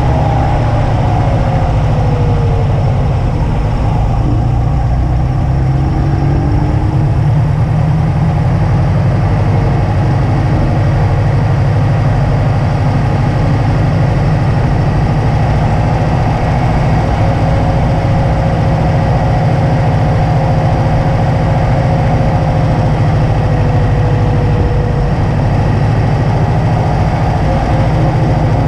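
2005 Subaru WRX wagon's turbocharged flat-four running at a steady, moderate pace over heavy low road rumble, its pitch sinking slightly now and then.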